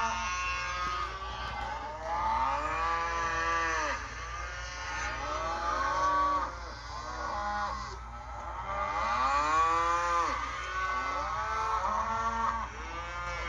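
Cattle mooing, one long call after another, often overlapping, each rising and then falling in pitch.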